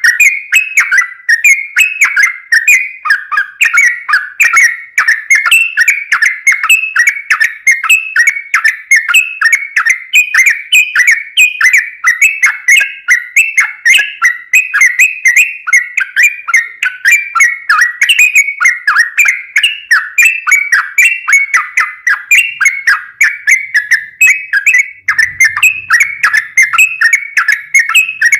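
Sooty-headed bulbul (trucukan) singing loudly and without a break: a rapid run of short, bubbly whistled notes, several a second.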